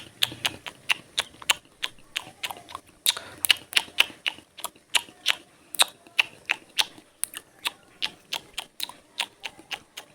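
Close-up eating sounds: a person chewing food with the mouth near the microphone, making a quick run of sharp, crunchy clicks about three to four a second.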